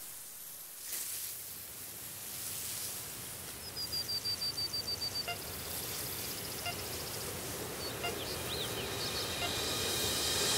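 Outdoor background hiss slowly growing louder, with a bird's rapid high trill of about ten notes a second lasting a second and a half near the middle, and a few short high chirps later.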